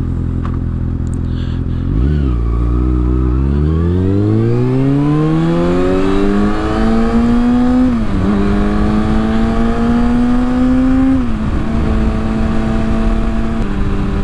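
Kawasaki ZX-6R's inline-four through its Yoshimura exhaust, accelerating hard: revs climb for several seconds, drop at an upshift about eight seconds in, climb again and drop at another upshift about eleven seconds in, then hold steady. Wind noise on the microphone runs underneath.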